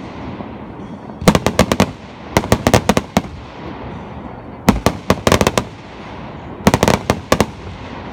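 Aerial fireworks going off: four volleys of rapid, sharp cracks, a couple of seconds apart, with a steady hiss between them.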